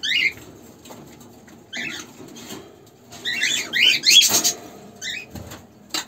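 Small cage birds chirping in short groups of high calls, busiest in the middle, with a brief rustle about four seconds in.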